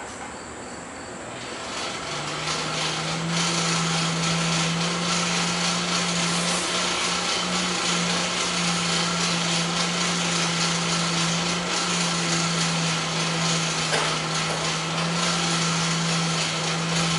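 An electric power tool, such as a grinder, runs steadily for about fifteen seconds with a constant motor hum and a broad hiss, starting about two seconds in.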